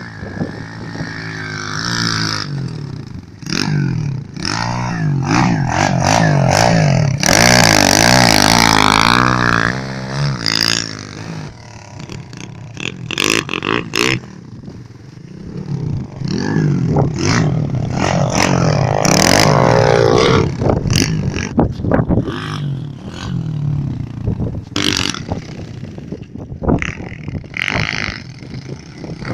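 Pit bike engine revving up and down repeatedly as it is ridden, growing loudest twice, around eight and around nineteen seconds in, with scattered short clattering knocks.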